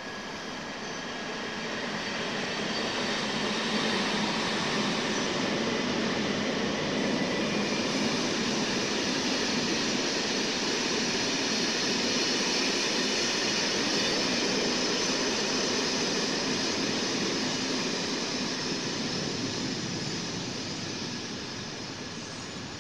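A locomotive-hauled passenger train running past on a nearby track. The steady noise of wheels and running gear swells over the first few seconds, holds, and fades near the end.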